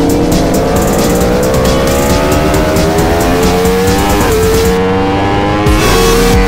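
Sportbike engine running hard, its pitch climbing slowly as it pulls through a gear, with brief dips about four and six seconds in before it settles steady.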